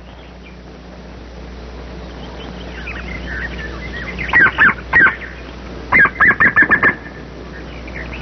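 Woodpeckers calling: faint chirps, then three loud, sharp calls about four seconds in, followed by a rapid run of about eight calls about six seconds in.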